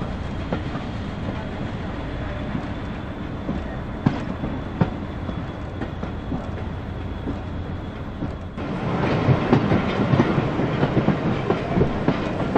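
Heritage railway carriage running along the line, heard from an open window: a steady rumble of wheels on rails with scattered sharp clicks over the rail joints. About two-thirds through, the noise suddenly gets louder and busier, with more clicks.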